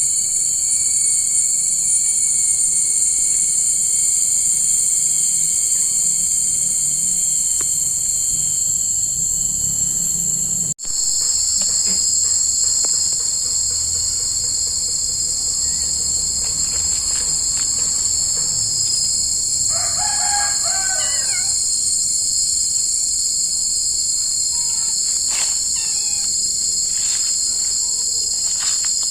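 Dense, steady, high-pitched insect chorus of crickets or cicadas. It cuts out for an instant about 11 seconds in and resumes with a slightly different pitch. A short bird call rises above it about 20 seconds in.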